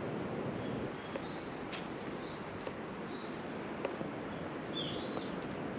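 Outdoor ambience, a steady hiss of background noise with a few short, faint bird chirps scattered through it, the clearest near the end, and a few faint ticks.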